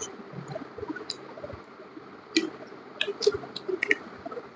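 Wet mouth sounds from eating ripe mango: short sucking smacks and lip clicks, about half a dozen scattered through, most of them in the second half.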